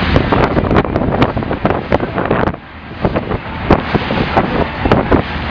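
Open speedboat running fast over the sea, its engine and hull noise buried under heavy wind buffeting on the microphone, with many sharp knocks throughout. The sound drops briefly about halfway through.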